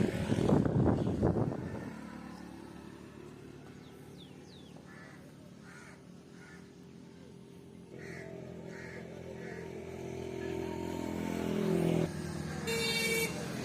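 An engine running with a steady hum that grows louder in the second half, with a few short calls over it and a brief high-pitched tone near the end.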